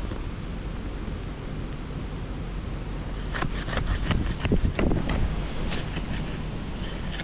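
Heavy wind rumbling on the microphone, with a few seconds of scraping and crunching in the middle, typical of soil being dug at a detector target.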